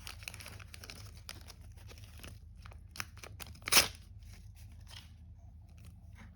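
Sticker packets and stickers rustling and crinkling as they are handled and sorted, with many small scattered rustles and one short, louder rip or crinkle about four seconds in.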